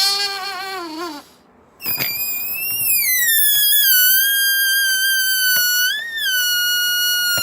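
Rubber balloon squealing as air escapes through its neck, pinched and stretched tight. A lower, wavering squeal stops about a second in; after a short pause a much higher squeal starts, slides down in pitch and then holds nearly steady with small wobbles.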